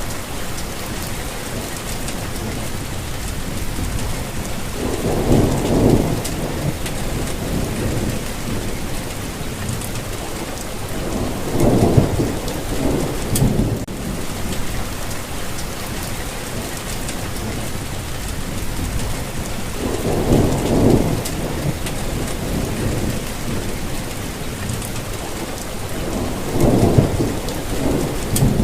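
Steady rainfall with scattered drop patters. Low rumbles of thunder roll in four times, each lasting a second or two, every six to eight seconds.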